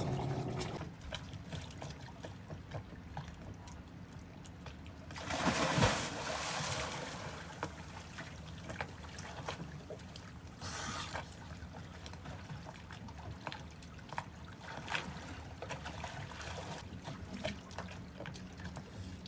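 Water trickling and dribbling, with small splashes and drips and a louder gush of water about five seconds in.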